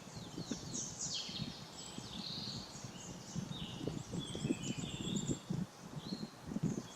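Small birds chirping and singing, with many short calls and a few quick downward-sweeping notes, over a low, irregular rumble.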